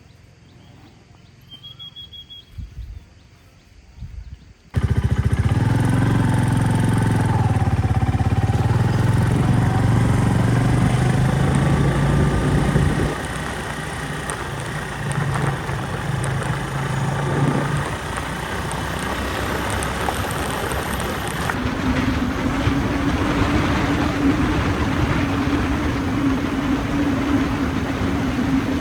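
Motorbike engine running on the move, with wind noise. About five seconds in it starts suddenly after a stretch of quiet, and the engine note shifts abruptly twice, ending in a steady hum.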